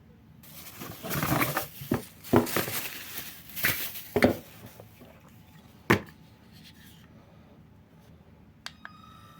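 Packaging being handled and unwrapped, with rustling and crinkling for the first few seconds, then a single sharp click. Near the end come two small clicks, followed by a faint steady whine.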